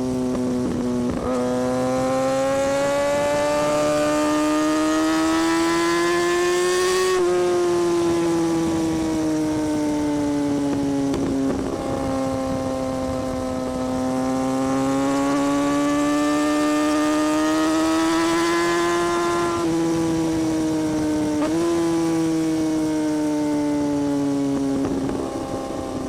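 Kawasaki Ninja ZX-6R inline-four sportbike engine and exhaust running at fairly high revs while riding. The pitch rises and falls slowly over several seconds at a time, with a few brief gear changes.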